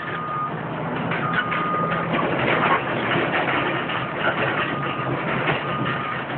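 Demolition machinery running, with a backup alarm beeping about once a second and scattered knocks and clatter of the building being torn down.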